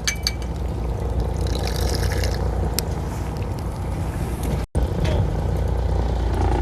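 Fishing boat's engine running steadily as a low hum, with a hiss of wind and water over it. All sound drops out for an instant about two-thirds of the way through.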